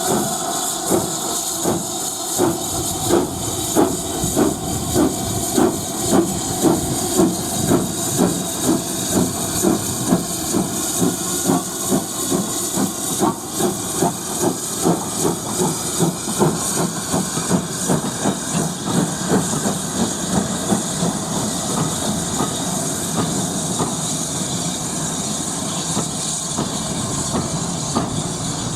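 Steam locomotive pulling away under a steady hiss of steam. Its exhaust beats start about a second apart and quicken, then run together as it gathers speed.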